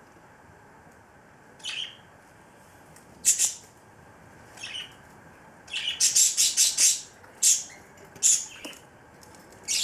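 Cockatiel preening close up: short, scratchy rustling bursts as it works its beak through and fluffs its feathers, with a quick run of several together about six seconds in.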